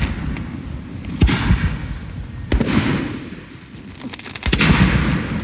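Aerial fireworks bursting: three sharp booms about a second and a half apart, each followed by a fading crackle as the shells break open.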